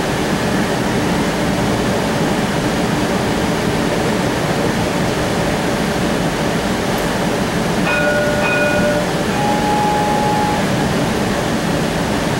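Streetcar heard from aboard while running along its track: a steady rumble of wheels and motors. About eight seconds in, a few short clear tones sound for a second or two.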